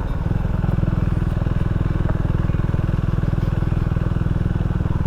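Can-Am Ryker three-wheeled motorcycle's engine running at a steady cruising speed while riding, a constant low, rapid firing beat.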